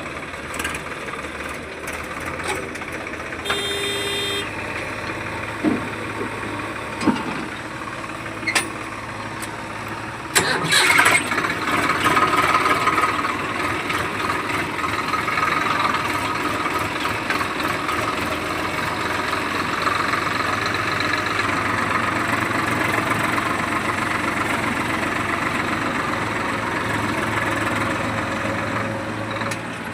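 A heavy vehicle's diesel engine running, with a few sharp knocks and a one-second pitched beep about four seconds in. The engine gets louder and busier about ten seconds in and keeps running that way.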